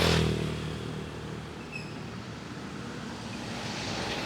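A small motorcycle passes close by right at the start, its engine note dropping in pitch and fading away over about a second, leaving a faint steady background hum.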